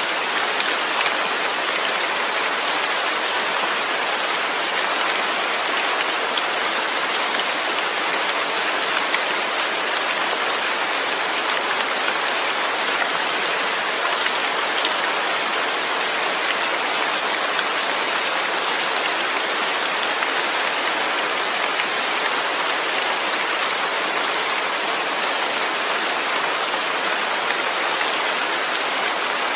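Steady rain falling, an even hiss of many drops with fine patters scattered through it.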